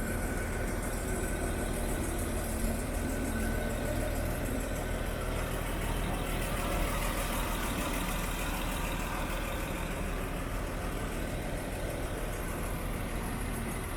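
1953 Dodge truck's inline-six engine idling steadily.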